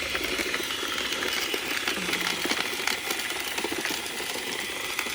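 Roomba 671 robot vacuum running over a driveway, its brushes and wheels clattering and ticking steadily as it picks up tree litter and grit.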